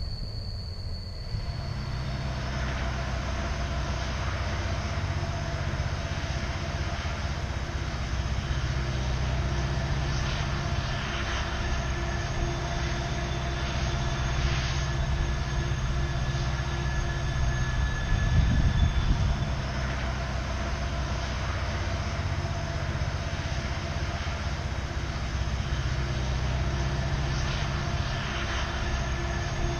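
Freight train rolling by, with the steady low rumble of its diesel locomotives. Thin whines of wheel squeal sound over the rumble, and a heavier low surge comes a little past halfway.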